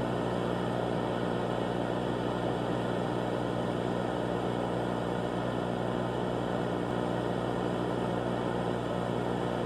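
A steady low hum under an even hiss, unchanging, with no distinct events.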